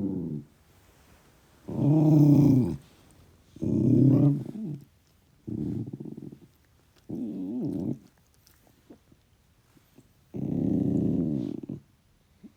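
A pet dog making a run of growly, howling vocal complaints: about six separate calls of a second or so each, wavering in pitch, with short quiet pauses between them.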